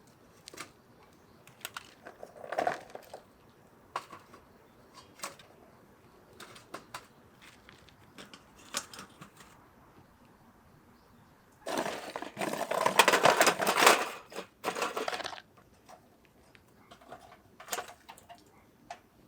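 Handling noises: scattered light clicks and knocks, then a louder rustling, crunching stretch lasting about four seconds, starting about twelve seconds in.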